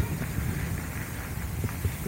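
Mountain bike riding on a dirt trail: an uneven low rumble of wind and tyres on the microphone, with scattered small rattles and ticks.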